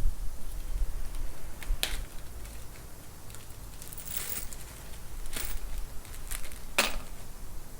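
A few separate light knocks and clicks, the strongest near the end, with a short rustling hiss around the middle: parts and tools being handled during an engine teardown.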